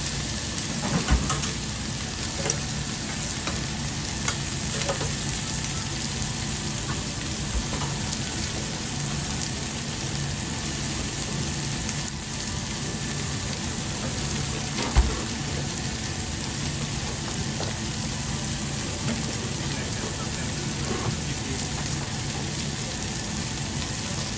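Meat, onion, leek and carrot sizzling steadily on a hot flat-top steel griddle, with scattered small pops and one sharper pop about fifteen seconds in.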